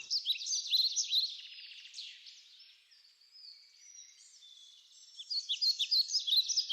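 Songbirds chirping and singing, many quick high calls overlapping; the calls thin out about two seconds in and grow dense again about five seconds in.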